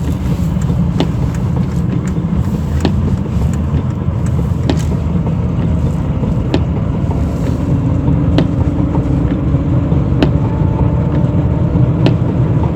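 Mercedes-Benz W124 heard from inside the cabin while driving: a steady low drivetrain and road hum, with a faint whine that comes in about halfway through, plus occasional sharp ticks. The owners trace the hum and whine to a worn driveshaft centre support bearing, heard from the rear centre of the car.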